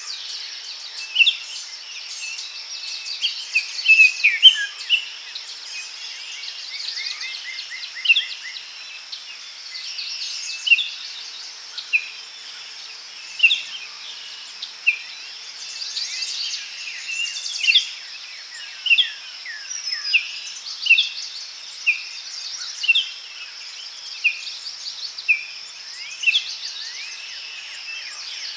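Daytime forest ambience: many birds calling in short chirps, one every second or so, over a steady high insect hum.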